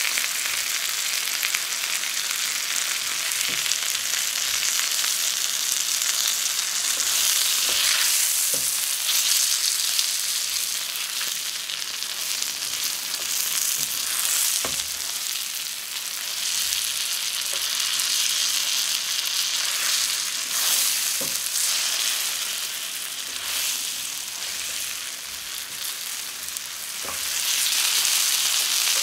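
Floured chicken strips sizzling in foaming butter in a steel frying pan, a steady crackling hiss, with a few light clicks of the spatula turning them.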